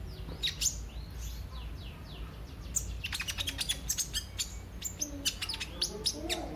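A kolibri ninja (sunbird) singing: quick, high, downward-sweeping whistles, then from about halfway a fast run of sharp high chips, over a low steady hum.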